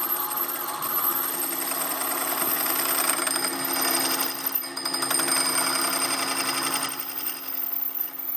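Workshop machinery running steadily with a fast, even rattle and a constant hum.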